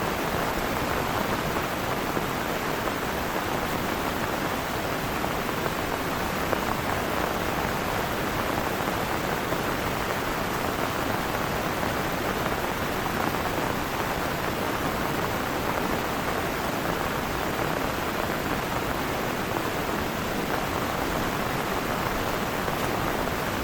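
Heavy rain pouring steadily, an even noise that does not change.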